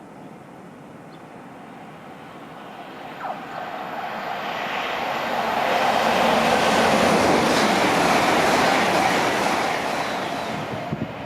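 A train passing through the station. Its running noise builds over several seconds, peaks about two-thirds of the way in, then fades.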